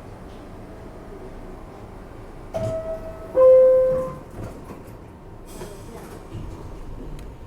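Two-tone descending door-closing chime of an R62A subway car, a higher tone and then a lower, louder one, each under a second long, warning that the doors are about to close. A few clicks follow over the steady rumble of the standing train.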